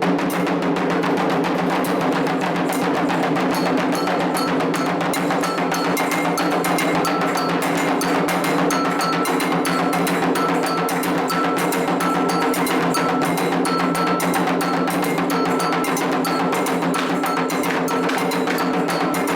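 Candomblé ritual drumming: atabaque hand drums played in a fast, dense rhythm, with a metal bell ringing in time on top and a steady low drone of voices or drum tones underneath.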